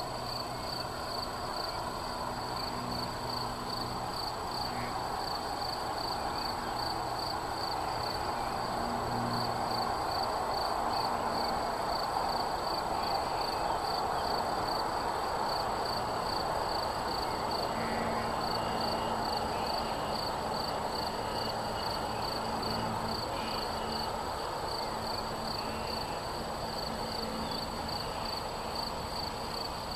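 A cricket chirping in an even, unbroken rhythm, over a steady outdoor rush that swells toward the middle. A low hum comes and goes underneath.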